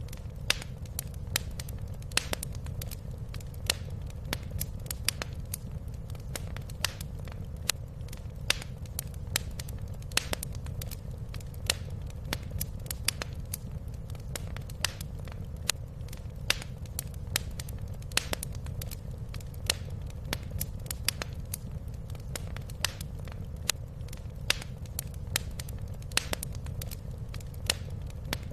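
Wood fire crackling in a fireplace: frequent sharp, irregular pops and snaps over a steady low rumble of burning.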